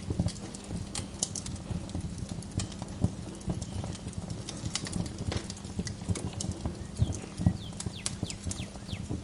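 Wood fire crackling in a fireplace: irregular sharp pops and snaps over a steady low rumble. A bird gives a few quick, falling chirps near the end.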